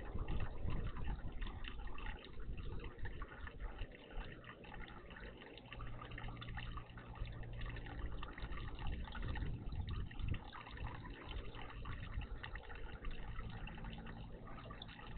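Water trickling and splashing in a garden bird bath.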